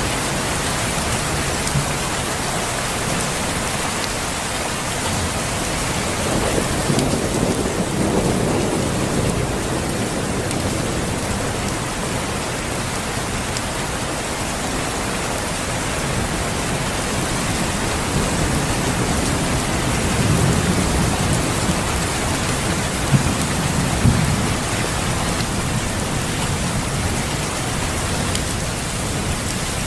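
Steady rain falling, with low thunder rumbling twice, about seven seconds in and again around twenty seconds in.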